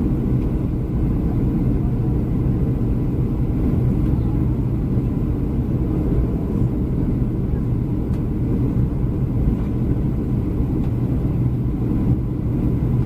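Steady low rumble of engine and airflow noise inside the cabin of a Boeing 737-300 on final approach.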